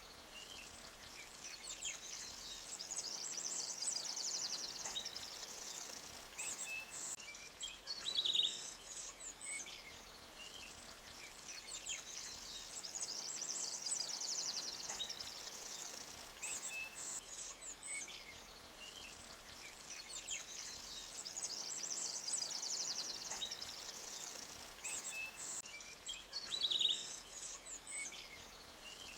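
Forest ambience of small birds chirping and trilling high over a faint, steady hiss of flowing creek water. The same pattern of calls comes back about every nine seconds.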